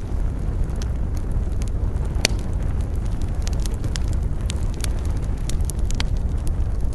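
Wood campfire burning: a steady low rush of flames with scattered sharp crackles and pops, one louder pop about two seconds in.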